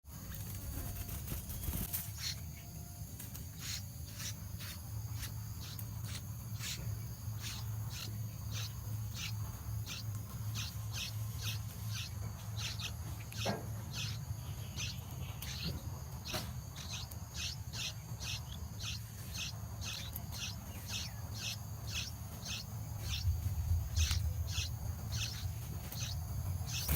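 A bird's short, high chirps repeated about twice a second, over a steady low rumble.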